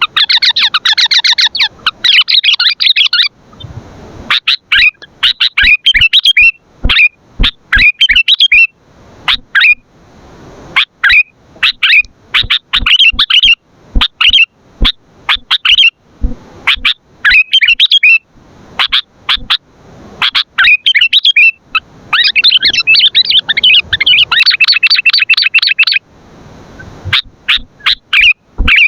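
Sooty-headed bulbul (kutilang) calling loudly in runs of sharp chirps, with two dense bursts of rapid chattering, one at the start and one near the end.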